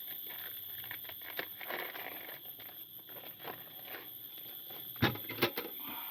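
Small handling noises of getting a meal ready: rustling, crinkling and light clicks, with two sharper knocks about five seconds in, over a steady high-pitched hum.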